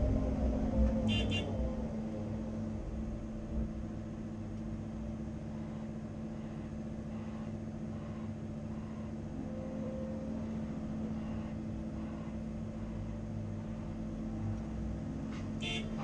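CAT 330 Next Generation excavator's diesel engine running steadily under work, with a brief high-pitched squeal or ring about a second in and again near the end.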